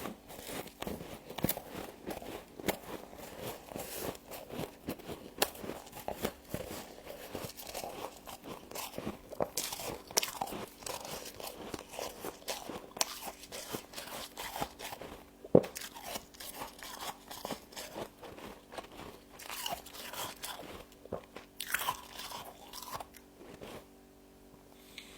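Frost being bitten and chewed close to the microphone: a dense run of sharp, crackling crunches that thin out and stop near the end.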